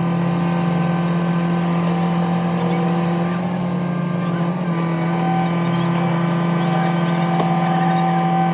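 An engine or motor running steadily at a constant speed, with an even, unchanging hum.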